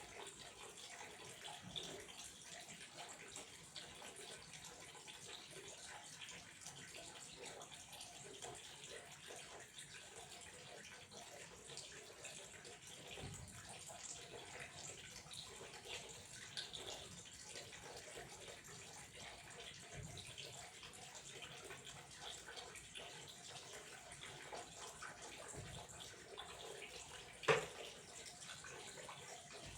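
Water flowing steadily, a faint, even splashing. One sharp click or knock sounds near the end.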